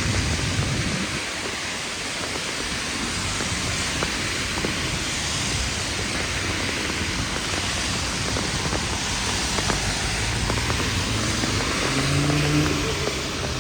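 Heavy rain falling steadily, a dense even hiss, with a vehicle passing that adds a low hum, strongest near the end.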